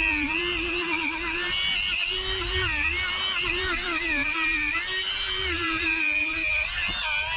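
Handheld power tool running continuously with a high motor whine whose pitch wavers up and down as the load changes.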